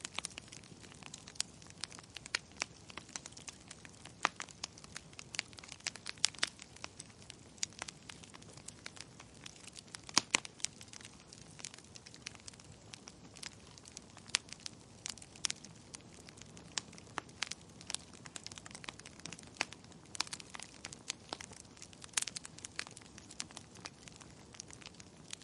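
Wood fire burning in a fireplace: irregular sharp crackles and pops, several a second, over a soft steady hiss.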